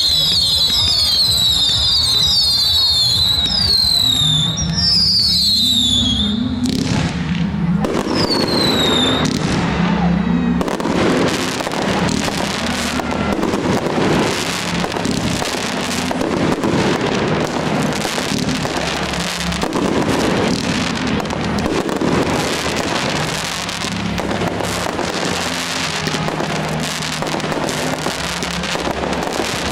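Fireworks display: a quick series of shrill whistles, each falling in pitch, for the first several seconds, then dense crackling and popping with heavier bangs that goes on to the end.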